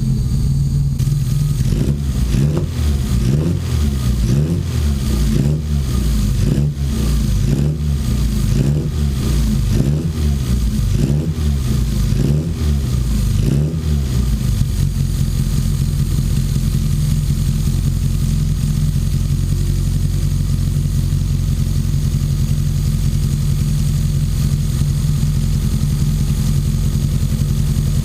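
1988 Classic Mini's four-cylinder A-series engine being blipped, revving up and dropping back about once a second, then settling to a steady idle about halfway through. It is running rich, with its fuelling and timing not yet set.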